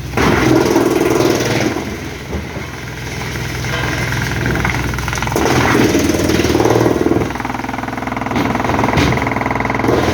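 A large engine running steadily, its note and loudness shifting several times as the load on it changes.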